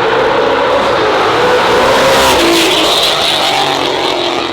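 Loud performance car engine at hard throttle, its pitch wavering up and down, with a bright high-pitched edge coming in about three seconds in.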